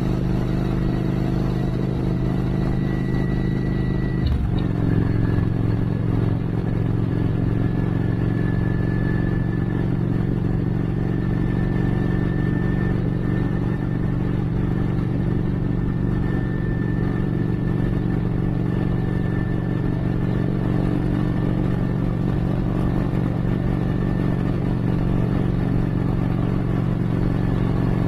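Motorcycle engine running steadily under way, its note stepping down about four seconds in, then holding steady.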